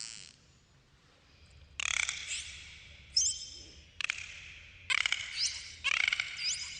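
Dolphins vocalising underwater: rapid trains of clicks and buzzing pulses, broken by short, high whistles that sweep upward.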